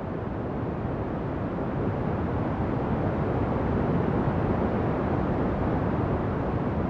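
Ocean waves: a steady wash of surf, swelling a little in the middle and easing toward the end.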